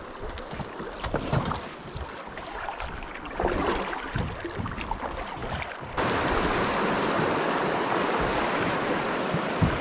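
River water and wind on the microphone from a kayak, with scattered light knocks. About six seconds in it jumps abruptly to a louder, steady rushing.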